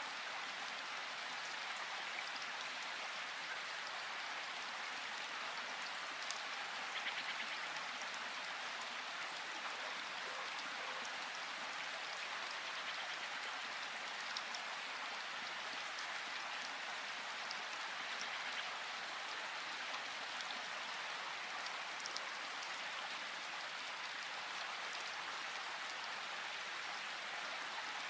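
River water rushing steadily in an even, unbroken hiss, with a few faint brief ticks of splashing.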